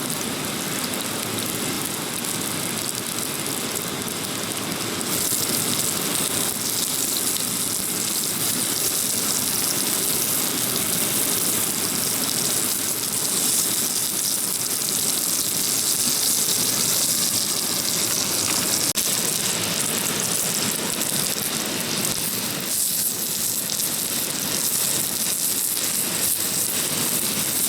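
Mountain stream water rushing, a steady noise throughout. About five seconds in, a brighter, higher hiss joins it.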